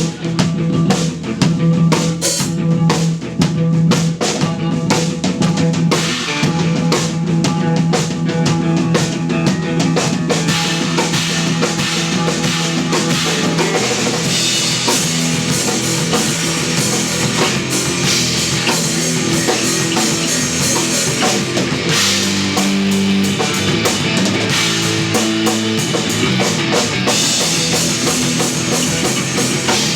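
Live instrumental post-rock played by a trio of electric bass, electric guitar and drum kit. The drums are prominent over a held low bass note at first, and about halfway through the band thickens into a fuller sound with a steady wash of cymbals.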